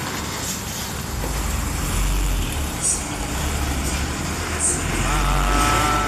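Trucks in a traffic jam: a heavy engine rumbles close by and grows louder from about a second in. Near the end a steady pitched tone joins it.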